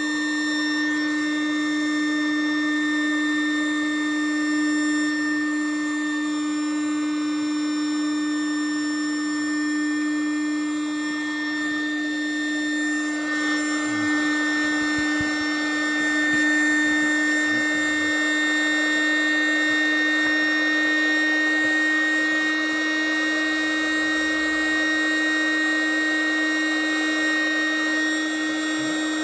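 Electric air compressor running steadily with a constant hum while inflating an inflatable boat's floor chamber. A rougher, airier noise joins about halfway through.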